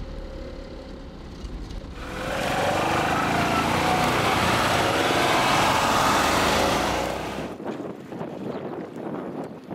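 Small single-cylinder BMW Isetta microcar engine, first a low drone heard from inside the cabin, then about 2 s in a louder small-engine sound with rising and falling pitch as the microcars drive off, which fades about 7.5 s in. Wind buffeting the microphone follows.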